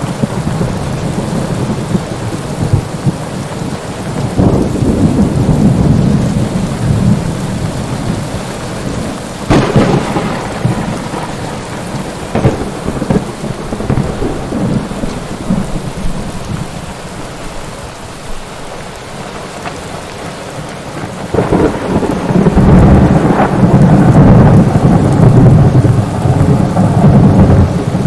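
Thunderstorm: steady rain with rolling thunder, a sharp crack about ten seconds in and a long, loud rumble building in the last third.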